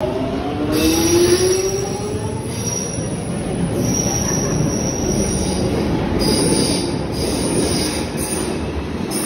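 Train running on rails, with a whine that rises in pitch over the first two seconds and a high-pitched wheel squeal that comes and goes.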